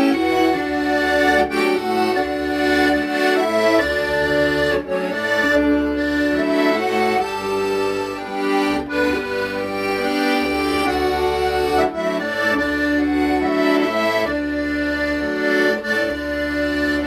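Accordion playing a slow, sustained melody, with held notes over low bass notes that change every second or two.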